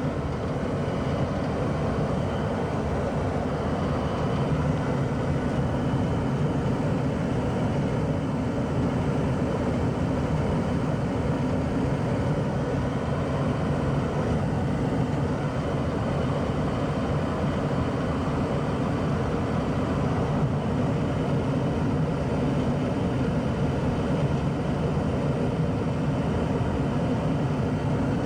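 1994 Tempstar SP80 gas furnace running steadily with its burners lit: a continuous, even rumble and rush of burning gas and moving air.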